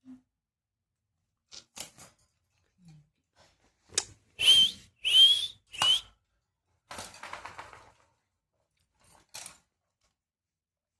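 Pet parrot giving three loud, shrill whistling calls in quick succession, each rising slightly in pitch, about four seconds in, followed by a softer rasping chatter and a few short clicks.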